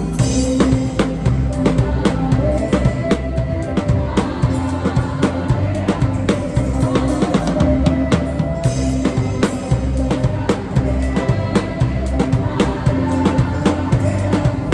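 A drum kit played live in a worship-music medley, recorded by phone from the room: a steady beat of kick and snare hits with cymbals over sustained notes from the rest of the music.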